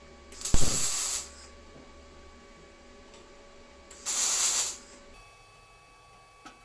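Two short bursts of hissing spray, each under a second and about three seconds apart; the first opens with a sharp knock. A small click near the end.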